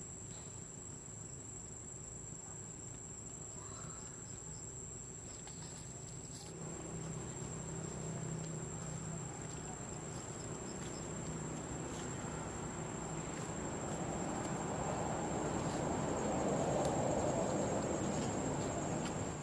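Steady high-pitched insect trill, cricket-like, running without a break, with a noisy hiss building underneath and loudest a few seconds before the end.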